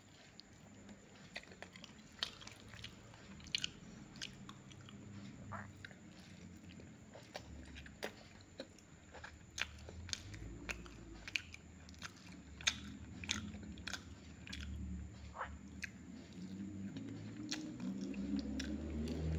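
A person chewing a mouthful of food close to the microphone, with frequent small sharp crunches and mouth clicks.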